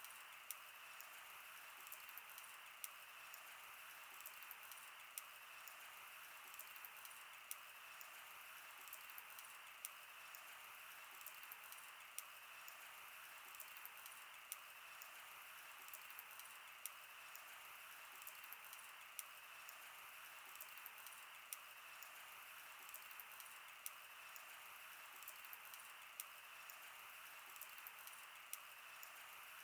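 Wood fire crackling: a faint steady hiss with frequent sharp pops and snaps scattered irregularly throughout.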